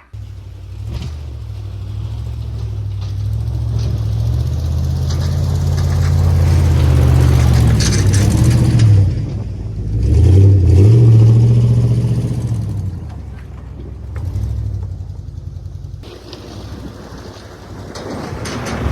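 Plow truck's engine running under load, its pitch rising and falling several times as it revs up and eases off.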